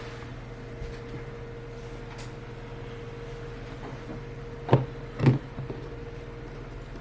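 A steady low hum with a constant tone, and two short knocks about half a second apart a little before the end.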